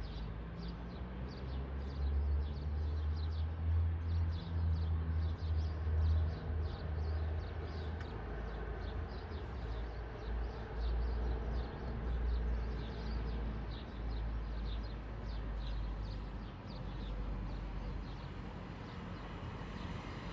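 Small birds chirping over and over, with short high chirps, over a strong low rumble that swells and fades.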